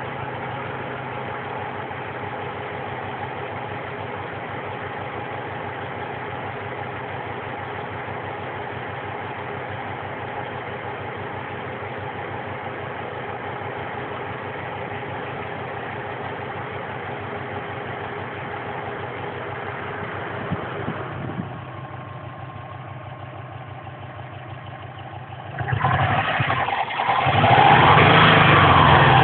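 Subaru Impreza flat-four boxer engine idling steadily. About three-quarters of the way through the idle drops quieter, then the engine is revved loudly several times near the end.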